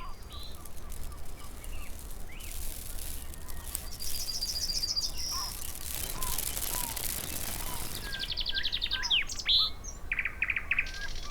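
Birds chirping, with several rapid trills near the middle and toward the end, over a low steady hum.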